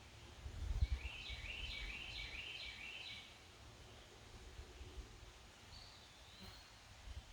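A songbird sings a quick run of short repeated high notes about a second in, then gives a single slurred whistle near the end, over a low rumble of wind on the microphone.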